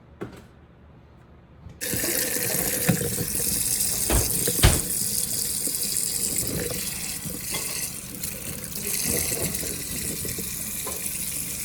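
Kitchen tap turned on about two seconds in, then water running steadily into the sink to rinse freshly picked blackberries, with a couple of knocks about four seconds in.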